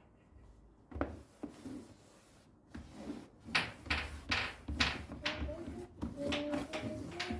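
Household items being handled: a single knock about a second in, then a quick run of clatters and knocks in the second half, like things being moved about in a cupboard or drawer.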